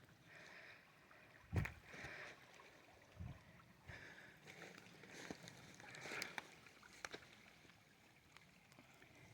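Faint trickling and gurgling of water flowing through a shallow inlet, in soft irregular swells, with a low thump about a second and a half in and a few lighter knocks.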